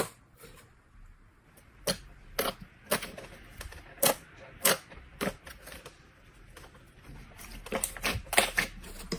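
Slime being pressed and squished by hand, letting out a run of short, sharp pops and clicks at irregular intervals, bunched more closely near the end.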